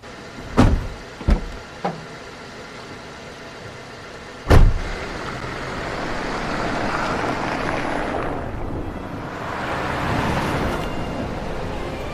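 A few sharp clicks, then a car door shutting with a loud thud about four and a half seconds in, followed by a car driving, its road and engine noise swelling and easing.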